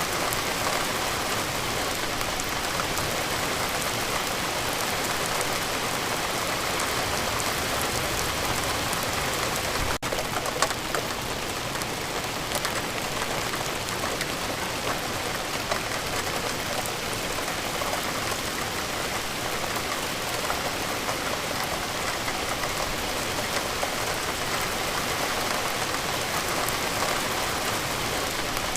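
Steady rain falling: a dense, even hiss with many small drop ticks. About ten seconds in, the sound drops out for an instant and is followed by one sharper tap.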